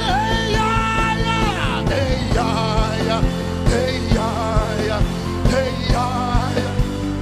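Live worship band music. A lead melody holds one long note, then moves into short wavering phrases, over sustained low chords and a steady drum beat.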